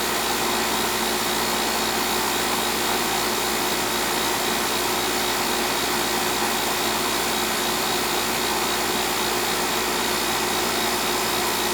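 Coleman central air conditioning system running: a steady rush of fan air over a constant low hum, with no change throughout. The system runs but does not cool, its suction line not coming back cold, which the technician puts down to a bad TXV.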